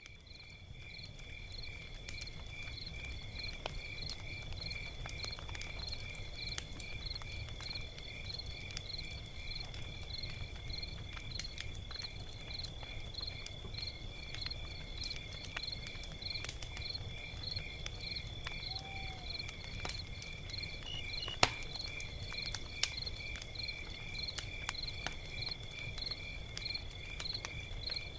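Log fire crackling with scattered small pops and one sharp, loud pop about 21 seconds in, over a low rumble. Crickets chirp steadily in a regular rhythm, a couple of chirps a second, over a steady high ringing tone. The sound fades in at the start.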